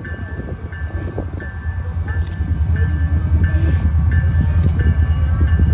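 An approaching train, its low rumble growing steadily louder, under a bell ringing evenly about once every 0.7 seconds.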